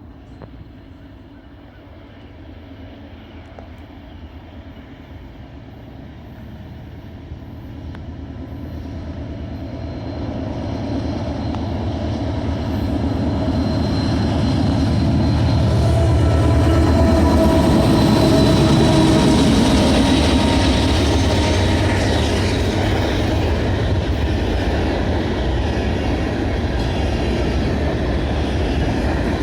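A Canadian Pacific AC44CWM diesel-electric locomotive, the lone unit on a mixed freight, pulls hard as it approaches and grows steadily louder. Its engine pitch drops as it passes, about 17 seconds in. The freight cars then roll by with steady wheel clatter.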